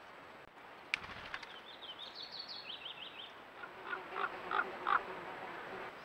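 Wild birds calling: a fast run of short high chirps, then four or five louder, lower calls near the end. A single sharp click about a second in.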